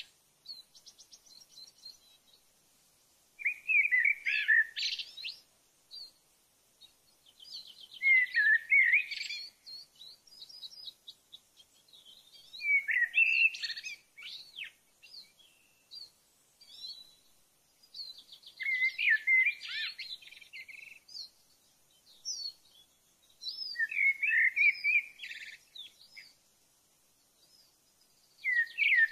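A songbird singing in short, repeated phrases, each about two seconds long, with a pause of a few seconds between them. Some phrases open with a fast trill and end in a lower, more complex flourish.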